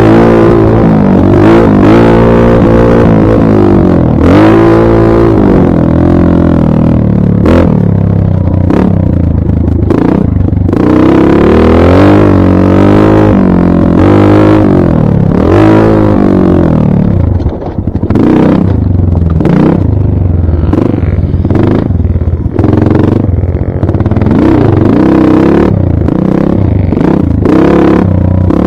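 Dirt bike engine running loud, its pitch rising and falling over and over as it revs up and eases off during a ride.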